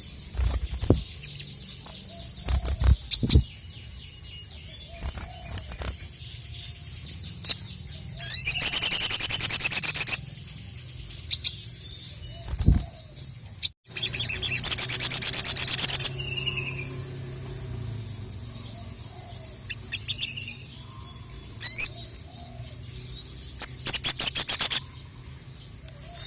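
Sogon (sogok ontong), a small nectar-feeding songbird, singing in loud, rapid high-pitched trills of about two seconds each, twice and then once more briefly near the end, with short chirps between. A few low thumps sound within the first four seconds and once more midway.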